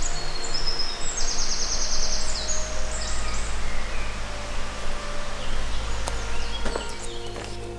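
Forest ambience: a songbird sings a rapid high trill in the first few seconds over a steady low rumble.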